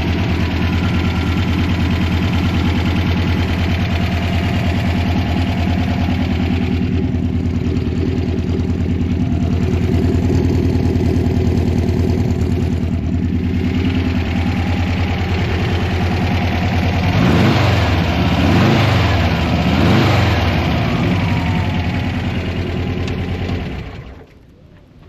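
Turbocharged 2276 cc air-cooled flat-four, built on an AutoLinea VW-type block, running at a steady idle. It is revved up and back down a couple of times near the end, then switched off about a second before the end.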